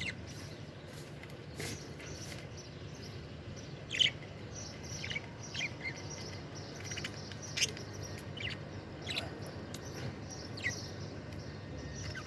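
Budgerigars chirping in short, scattered calls, the loudest about four seconds in, over a steady low hum.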